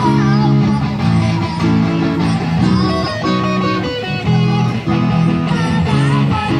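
A busker's guitar playing a song, with strummed chords underneath and a melody line of bending notes above them.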